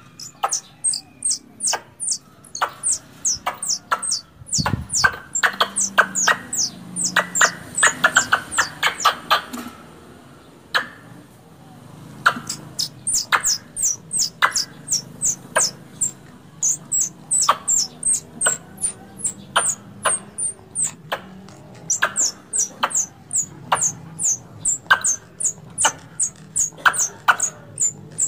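Squirrel calls used as a hunting lure: a long run of short, sharp, high chirps, each dropping in pitch, about two to three a second, with a brief break about a third of the way through before they resume.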